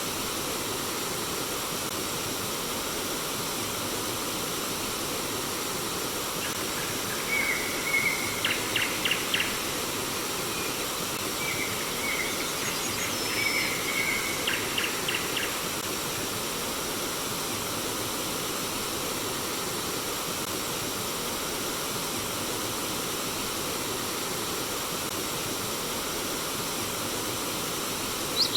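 Steady rush of flowing stream water. A bird calls in two short bouts, about a quarter and about halfway in, each a held note followed by a quick run of short clipped notes.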